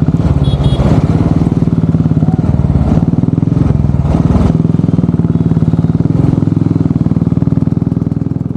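Royal Enfield motorcycle engine running steadily at low revs with a rapid, even pulse, with a few short knocks about three and four seconds in.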